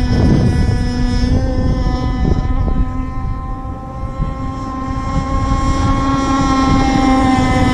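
Stock 26cc Zenoah two-stroke gas engine of an RC race boat running flat out in a steady high-pitched note, growing quieter around the middle and then louder again.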